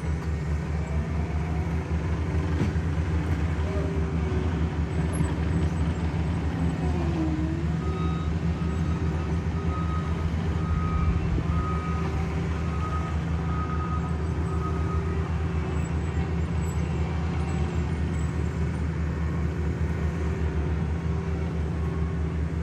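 Diesel engines of heavy asphalt-paving equipment running steadily. A reversing alarm beeps in an even series for several seconds in the middle.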